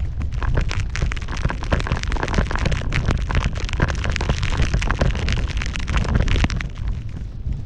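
Wind buffeting the microphone of a GoPro MAX action camera on a powder run in a blizzard, over a dense crackling hiss of powder snow spraying and sliding under the rider. The crackle eases near the end.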